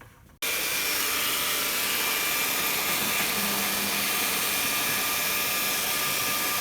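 Heat gun blowing: a steady fan hiss with faint steady whine tones, starting abruptly about half a second in.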